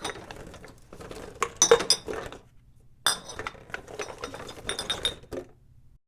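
Glass bottles clinking and rattling against each other in two flurries of quick chinks with a bright glassy ring, the second starting about three seconds in.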